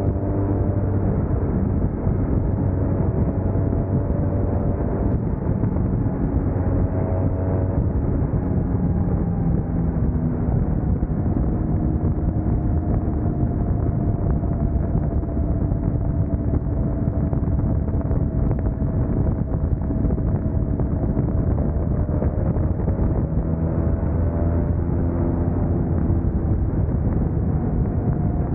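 Motorcycle engine running at road speed under a steady rush of wind on the microphone. The engine note drifts slowly up and down as the speed changes.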